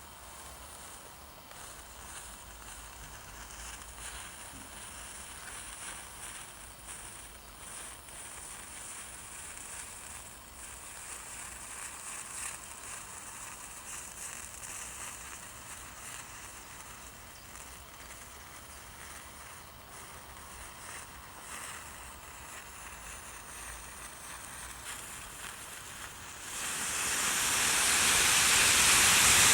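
A large mass of matches burning with a steady crackling hiss. About 26 seconds in, it suddenly grows much louder into a dense rushing noise as the fire flares up.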